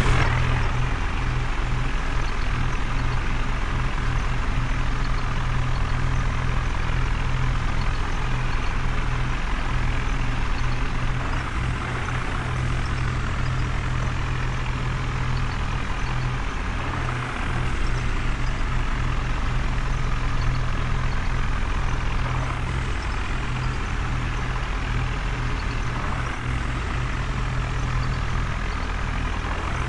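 Heavy vehicle engine running steadily, a continuous low rumble without breaks.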